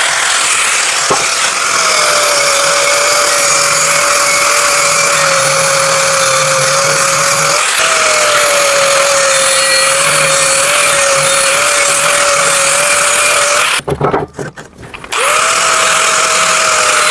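Power grinder grinding the edge of a steel hydraulic log-splitter axe blade: a steady whine over a harsh hiss. It breaks off for about a second near the end, then starts again.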